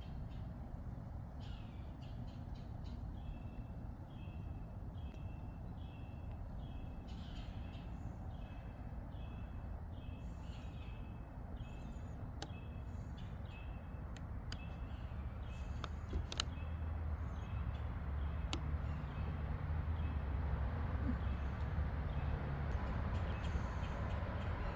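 A bird repeating a short call about twice a second for roughly ten seconds, over a steady low rumble of highway traffic that grows louder near the end.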